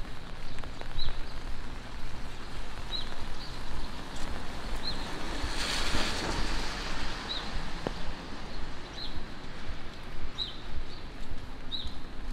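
Steady rain falling on a wet city street and sidewalk, with a car's tyres hissing past on the wet road, swelling and fading around the middle. Short high bird chirps come every second or two.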